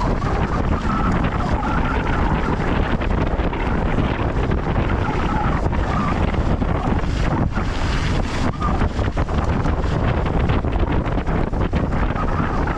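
Wind buffeting a GoPro's microphone during a fast downhill mountain-bike descent, a loud, steady rush. Frequent short knocks and rattles run through it from the bike and tyres going over rough volcanic soil.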